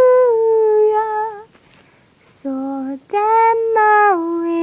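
A high female voice singing a song unaccompanied. She holds long notes, breaks off for about a second in the middle, then carries on with stepping notes.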